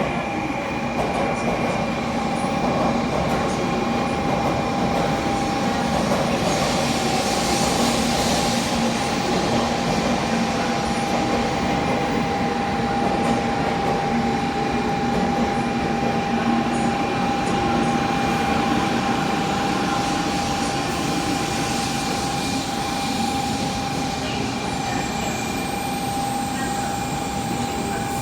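N700A Shinkansen standing at a station platform, giving off a steady hum with a few constant tones over a wash of station noise.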